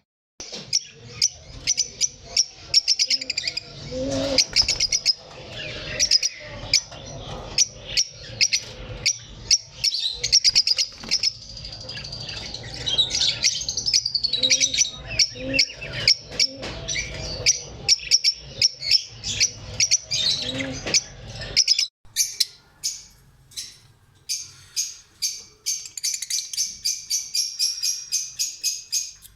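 Caged lovebirds chirping rapidly and continuously, many calls overlapping, over a low background rumble that cuts off suddenly about two-thirds of the way through. Near the end, quick sharp chirps repeat about three times a second.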